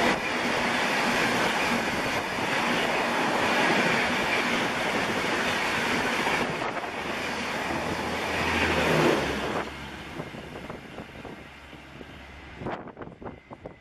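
Indian Railways express passenger train passing at high speed, a loud steady rush of wheels on rails and wind. About nine or ten seconds in, the sound drops away to a fading rumble as the train recedes, with a few sharp clicks near the end.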